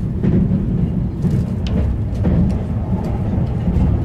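Steady low rumble of an electric limited express train running along the track, heard from inside the passenger car, with a few faint clicks over it.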